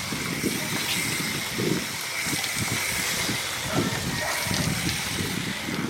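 Water sprayed under pressure through a split air conditioner's coil and vents, a steady hissing spray with irregular low splashing underneath, washing the dirt out of the unit.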